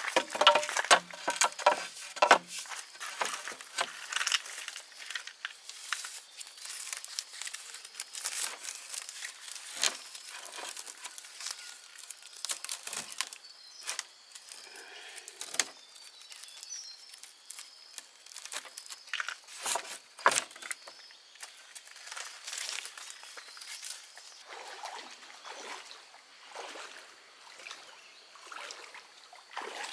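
Irregular rustling, crackling and sharp clicks, as of someone moving about and handling things outdoors, loudest in the first few seconds, with a faint steady high tone behind.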